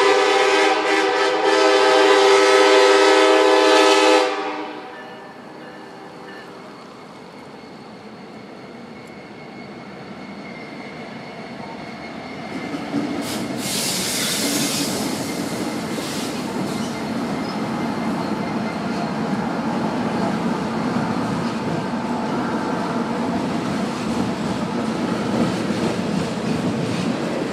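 Diesel freight locomotive's air horn sounding one long, loud chord that cuts off about four seconds in. The train's rumble then builds as the locomotives cross the trestle, with a brief hiss partway through, and the freight cars roll past with a steady rumble and wheel clatter.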